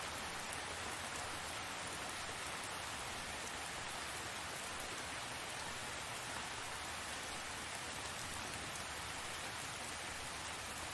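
Steady rain falling, an even hiss with faint scattered drop ticks and no letting up.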